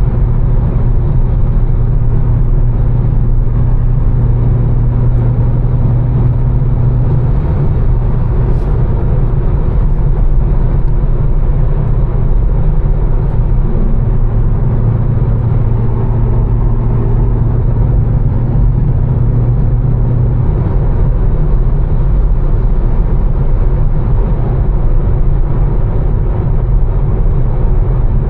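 Tuned BMW M4's twin-turbo straight-six cruising at steady revs, a low steady drone that shifts slightly a few times, over a constant hiss of tyres on a wet road.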